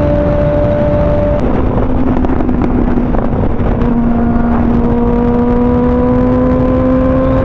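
Kawasaki ZX-6R's inline-four engine running under way. The pitch drops a step about a second and a half in, then climbs slowly as the revs build.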